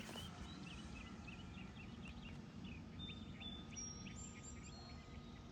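Faint bird chirps repeating several times a second, with a few thin, higher whistled notes midway, over a low outdoor rumble.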